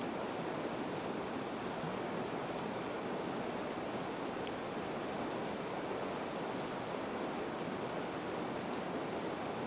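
A cricket chirping in an even series, about two and a half short high chirps a second, starting a second and a half in and stopping near the end, over the steady rush of the river. A single crackle from the burning wood pops about halfway through.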